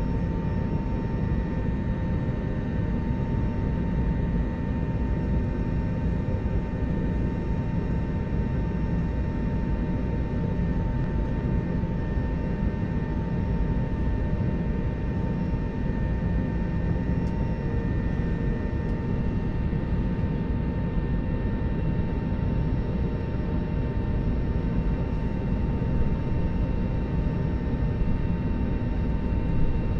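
Steady jet-airliner cabin noise with the engines at low power before takeoff: a constant low rumble with a steady whine and several held tones over it.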